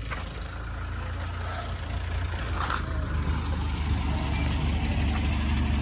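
Boat engine running with a steady low drone that grows gradually louder.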